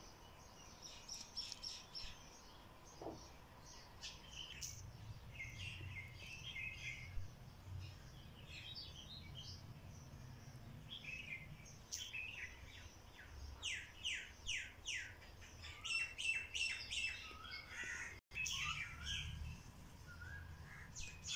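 Small birds chirping and twittering outdoors, with a quick run of downward-sweeping notes about two-thirds of the way through, over a low background rumble.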